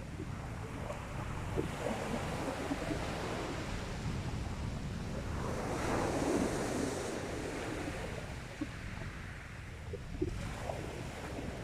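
Sea waves breaking and washing up the beach, with one louder surge of surf about six seconds in, over a steady low rumble of wind on the microphone.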